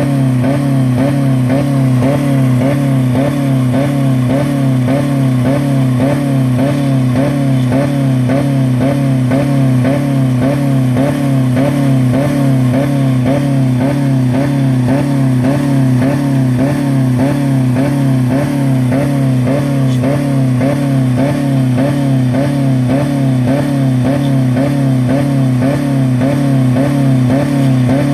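A 2000 Dodge Neon's 2.0-litre four-cylinder engine running flat out at about 4000 rpm against the rev limiter, its note wavering in a steady pattern about twice a second. The engine has no oil or coolant left in it.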